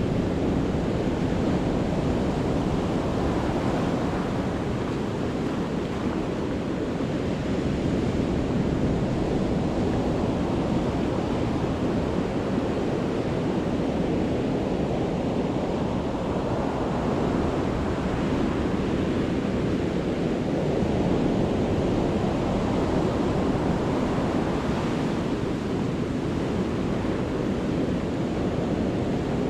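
Sea waves breaking on a beach as the high tide comes in, a continuous rush of surf that swells and ebbs every few seconds, with some wind on the microphone.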